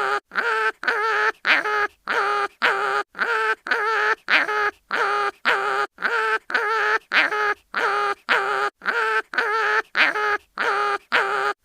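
Cartoon animal crying-in-pain sound effect: short, wavering pitched cries repeated at an even pace, about two and a half a second, in a steady loop.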